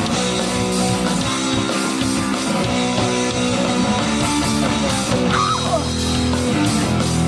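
Live punk rock band playing an instrumental passage: distorted electric guitar chords over bass and drums with a steady beat.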